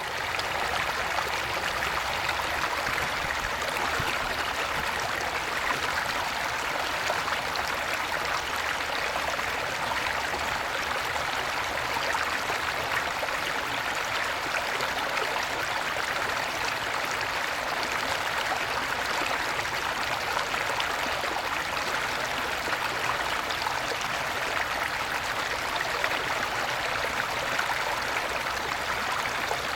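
Small stream after rain, water babbling and splashing steadily.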